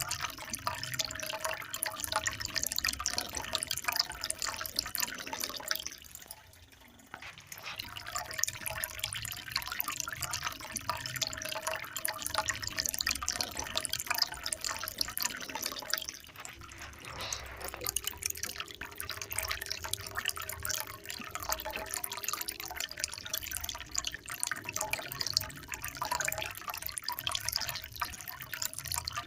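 Water trickling and splashing in a fine, irregular patter that dips briefly about six seconds in.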